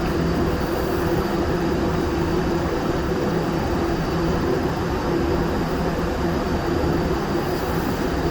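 Powder-coating setup running steadily while steel parts are sprayed: a booth extraction fan or blower with a steady low hum, mixed with the air rush of the powder spray gun.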